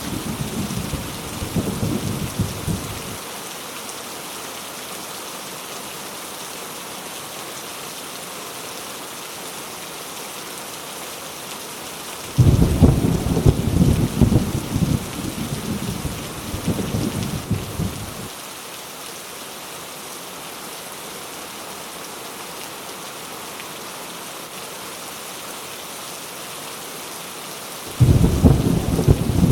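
Heavy rain falling in a steady hiss, with rolls of thunder. One rumble fades out in the first few seconds, another breaks in suddenly about twelve seconds in and rolls for about six seconds, and a third starts near the end.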